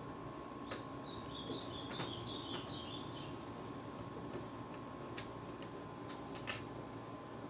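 Scattered light clicks of small screws and a screwdriver being handled during a PS3 teardown. A faint high wavering chirp runs for a couple of seconds near the start, over a faint steady whine.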